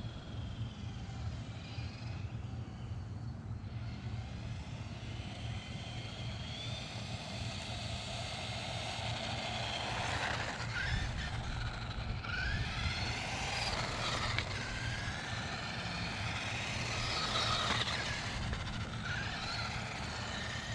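Redcat Volcano 18 V2 1/18-scale electric RC monster truck driving, its motor and gears whining up and down in pitch as it speeds up and slows, over a steady low hum.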